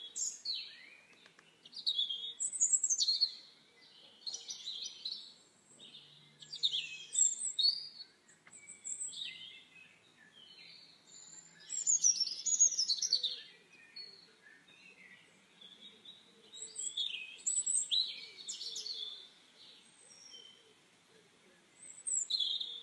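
Small birds singing, clusters of quick high chirps and trills coming every few seconds with short pauses between.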